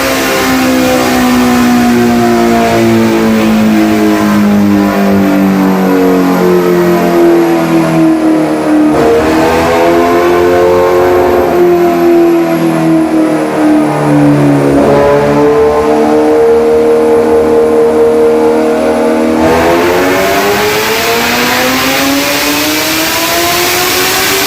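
Kawasaki ZX-6R inline-four engine running on a dyno through an Austin Racing aftermarket exhaust. Its note falls slowly, steps up sharply twice (about nine and fifteen seconds in), holds steady for a few seconds, then climbs again in the last few seconds.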